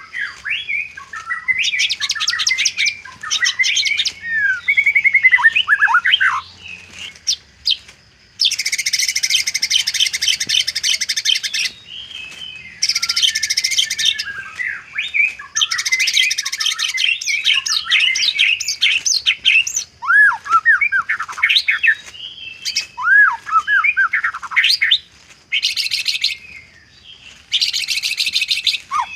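White-rumped shama singing a long varied song: clear whistled notes that slide up and down, broken several times by harsh, rapid rattling phrases lasting a second or two.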